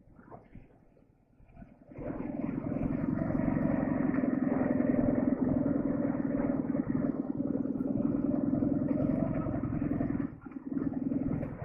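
Boxer-twin motorcycle engine running steadily with a dense, even beat. It comes in abruptly about two seconds in and dips briefly near the end.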